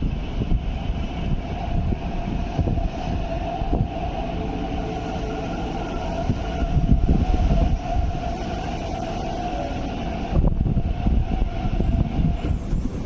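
MTR East Rail Line R-train electric multiple unit pulling into the platform and slowing to a stop, with a low rumble and a steady whine at one pitch that stops about ten seconds in.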